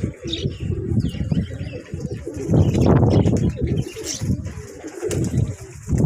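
Pigeons cooing repeatedly in low, rolling calls, with a few faint, higher chirps from small birds.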